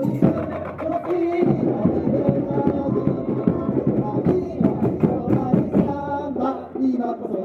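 Samba music: a driving drum and percussion rhythm with a voice singing over it.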